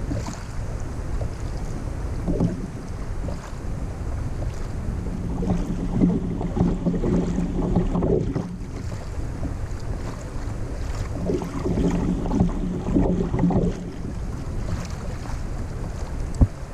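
Wind buffeting the microphone over water around a kayak. A low hum comes and goes twice, and there is a sharp knock near the end.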